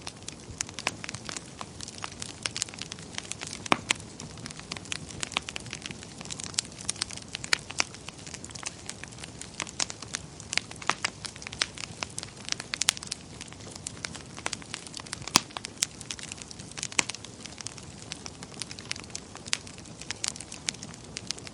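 Wood fire in a fireplace crackling, with irregular sharp pops and snaps several times a second over a steady low hiss.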